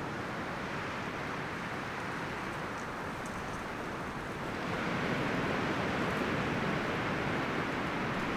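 Wind rustling through forest leaves and branches in a steady hiss, swelling louder about halfway through as a gust picks up.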